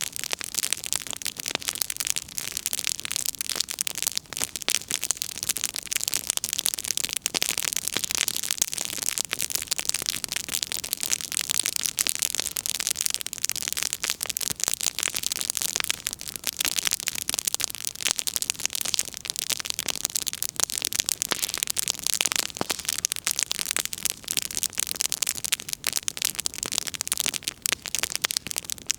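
Firewood burning in an open bonfire, crackling with a dense, continuous run of sharp pops and snaps over a steady hiss.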